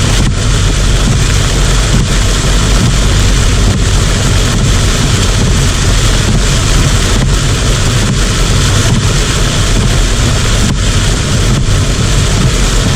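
Heavy typhoon rain pouring in a loud, steady rush, with wind rumbling on the microphone.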